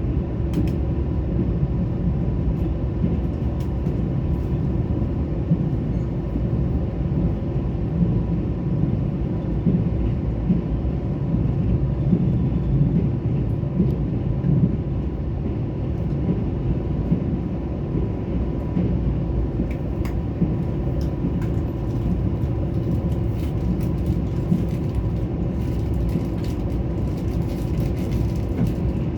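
Korail Mugunghwa-ho passenger train running: a steady low rumble with a faint steady tone and scattered light clicks.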